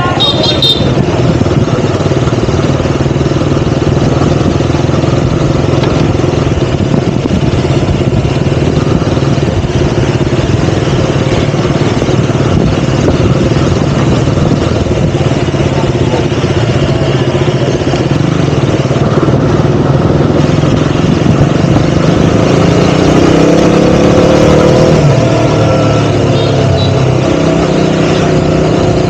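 KTM Duke 200's single-cylinder four-stroke engine running under way at a steady pace, with the revs rising for a few seconds about three-quarters of the way through and then falling back.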